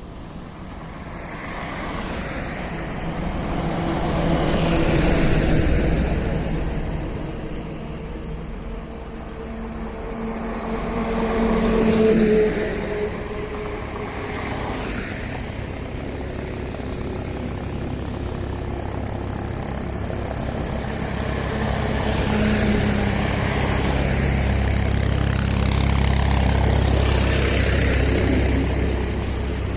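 Heavy trucks and other vehicles passing one after another on a highway, engine hum and tyre noise swelling and fading with each pass. Two loud passes come about five seconds in and near twelve seconds, and a long low rumble builds through the last several seconds.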